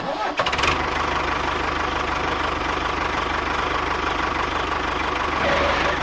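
A small engine or motor starts abruptly and runs steadily, with a fast, even rattling pulse.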